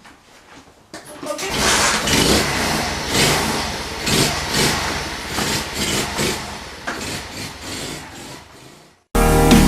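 A 72cc Skyteam Monkey mini-bike engine is started about a second and a half in after a few faint clicks. It then runs while being revved up and down repeatedly. Music cuts in abruptly just before the end.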